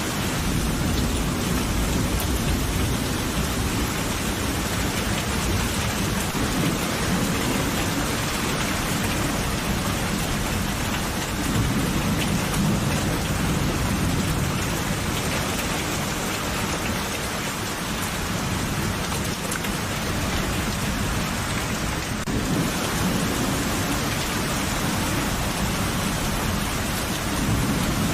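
Steady heavy rain falling with low rolling thunder rumbling beneath it, the thunder swelling about halfway through and again near the end.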